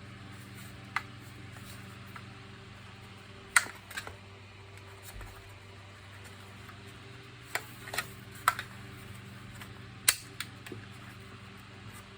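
A scattered series of sharp clicks and taps from hard parts being handled or set down, over a low steady hum.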